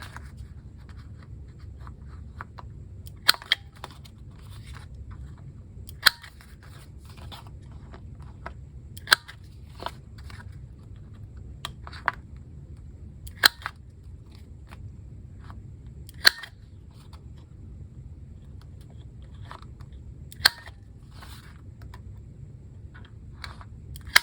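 Corner rounder punch snapping through paper corners on its 7 mm side, one sharp click every few seconds, about eight in all, over a low steady hum.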